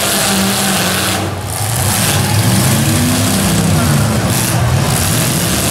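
Several demolition derby cars' engines running and revving together, with a short dip about a second in and the engine pitch rising and falling again around the middle.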